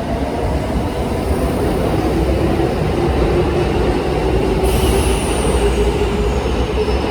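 Kintetsu electric train running along the platform with a steady rumble, its motor whine slowly falling in pitch as it slows. A faint high whistle, sliding downward, joins a little past the middle.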